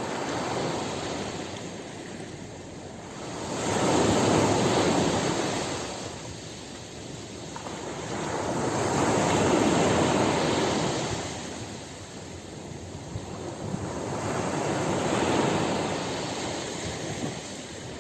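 Ocean waves breaking and washing in, three swells each rising and falling over about five seconds.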